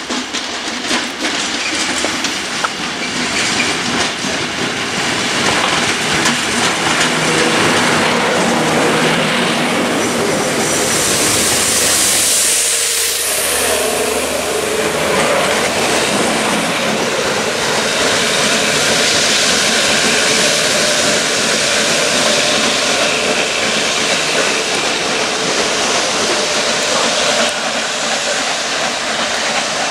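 Rail head treatment train of Network Rail water-tank wagons with a Class 73 locomotive, approaching and running through a station. Steady loud rumble and clatter of wheels on the rails that builds over the first few seconds, with a loud hiss about a third of the way in as the wagons pass closest.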